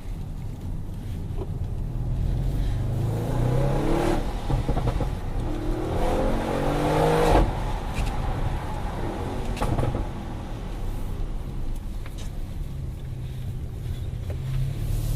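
Audi RS6 Performance's twin-turbo 4.0-litre V8 accelerating hard, its revs climbing twice and cutting off sharply about seven seconds in. A few short exhaust cracks come around ten seconds in, then the engine runs steadily before starting to climb again near the end.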